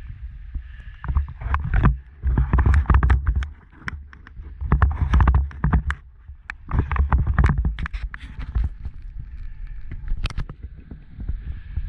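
Wind buffeting the microphone in repeated gusts, each about a second long, with a scatter of sharp clicks and crunches through them.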